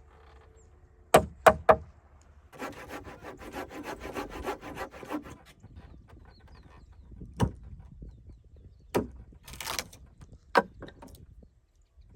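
Hand woodworking on timber: three quick sharp knocks on wood, then about three seconds of rapid scraping or sawing strokes. A few more single knocks follow, with a brief second stretch of scraping.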